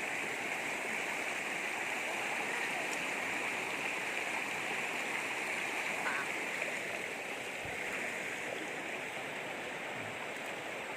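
River water flowing steadily over gravel and large stones, a continuous babbling.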